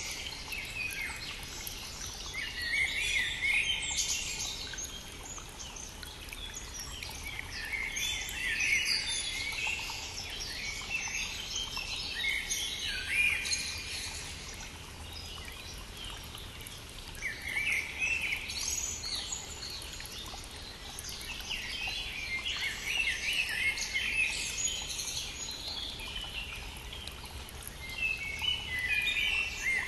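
Songbirds singing in spring, a run of chirping phrases every few seconds, over the steady rush of a running stream.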